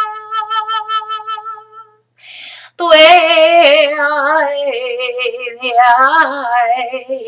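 A woman's wordless toning: a long held sung note, a short breath in at about two seconds, then a louder wavering sung phrase that slides downward in pitch.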